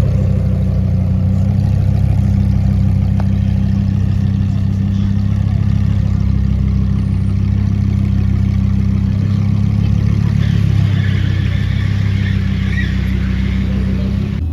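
A car engine running steadily at a constant, unchanging low pitch, idling rather than revving.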